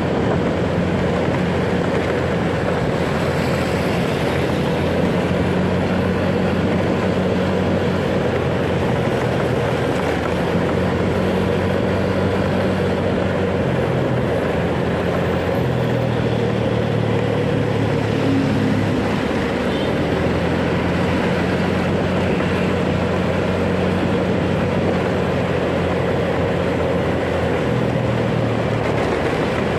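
Motorcycle riding in traffic: the engine note steps up and down with throttle and speed under heavy wind noise on the microphone.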